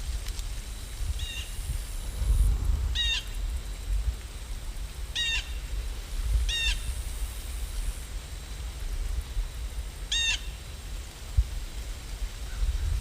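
A bird giving five short, separate calls, spaced irregularly over about ten seconds, over a low rumble.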